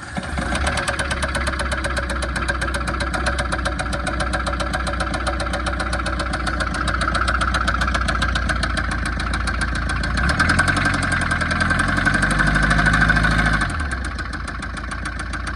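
Tata Safari Storme's 2.2-litre diesel engine running just after start-up, with a rapid, regular knock. It revs up for a few seconds about ten seconds in, then drops back to idle. The knock comes from an engine that is seizing; teardown showed a worn connecting-rod bearing and a seized crankshaft.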